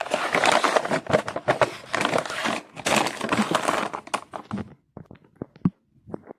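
A cookie package being opened by hand: the wrapper crinkles and tears in a dense run of crackling for about four and a half seconds, then a few scattered crackles near the end.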